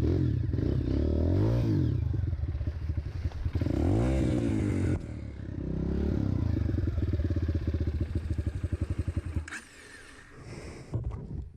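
Dirt bike engine running and being revved, its pitch rising and falling several times, then cutting out about nine and a half seconds in, followed by a few sharp clatters.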